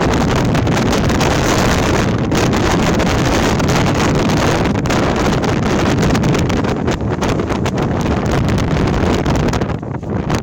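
Gale-force wind gusting hard against the microphone and a Hilleberg Tarra tent, a loud constant rush with rapid fabric-like flutter and buffeting, easing briefly near the end.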